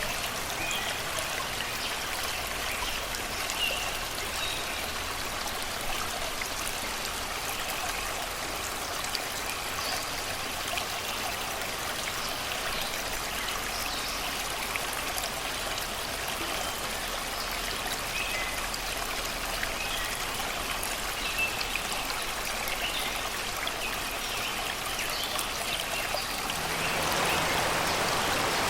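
Shallow river babbling and rushing over rocks, a steady water noise, with small birds chirping faintly in the background. Near the end the water gets a little louder.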